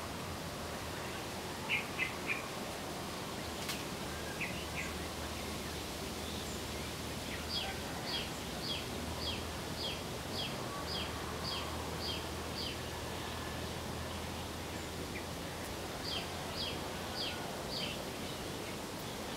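A bird calling in runs of short, falling chirps, about two a second: three quick ones early, a run of about eleven in the middle and four more near the end, over a steady outdoor background noise.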